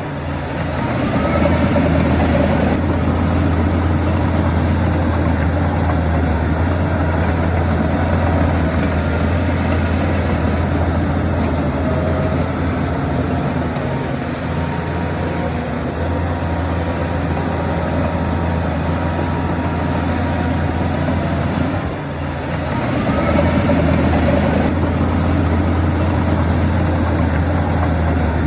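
Heavy diesel engine of earthmoving machinery running steadily under load. It briefly drops and then revs back up twice, near the start and about 22 seconds in.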